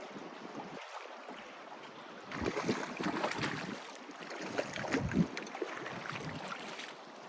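Wind buffeting the microphone along with waves washing in, swelling louder twice: about two and a half seconds in and again about five seconds in.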